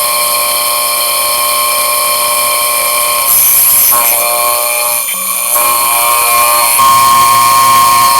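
Homemade 4x50-inch belt grinder running, a steady whine with a high hiss, stepping louder about three seconds in and again near the end.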